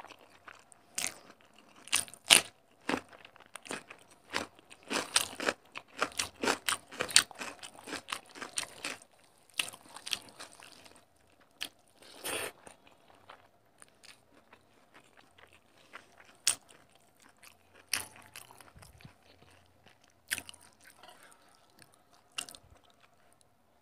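Close-miked chewing and crunching of a mouthful of rice and curry eaten by hand, with wet lip smacks. The sounds come thick and fast through the first half, then thin out to scattered single smacks.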